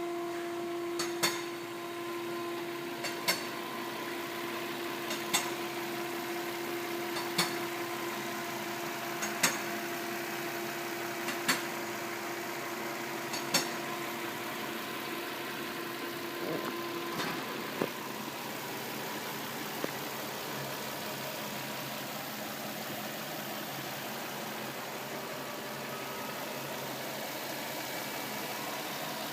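Nissan Skyline GT engine idling steadily, with a sharp tick about every two seconds. A steady whine runs alongside and stops a little past halfway.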